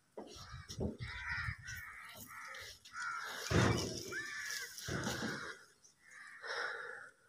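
Birds calling, a string of short calls one after another.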